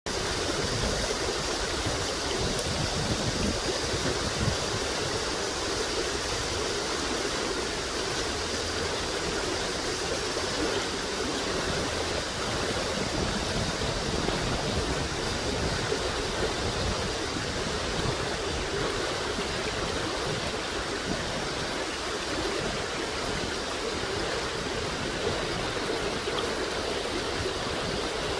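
Stream water flowing, a steady even rush.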